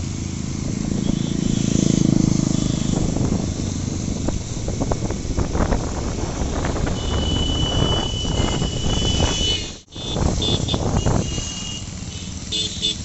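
Motorbike engine and road noise while riding, a steady low rumble. A high steady tone sounds for about two seconds from around seven seconds in, and the sound drops out briefly near ten seconds.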